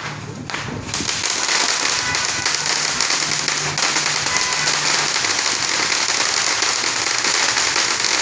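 Fireworks going off at ground level, a dense rapid crackling that sets in about a second in and keeps up without a break.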